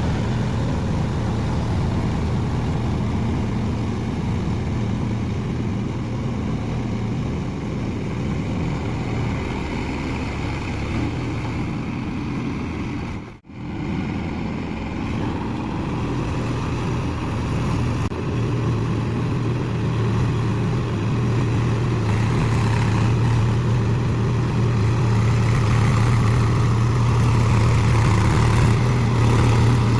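Tractor diesel engine running steadily while puddling a flooded paddy field, with one sudden short gap about halfway through. The engine grows louder over the second half.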